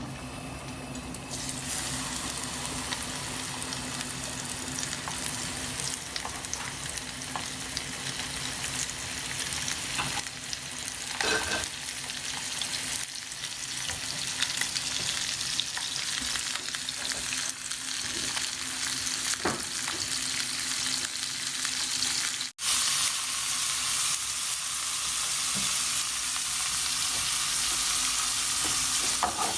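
Small whole chicken frying in a pan, a steady sizzle that grows louder, with a few scattered crackles. The sound drops out for an instant about three-quarters through, then carries on.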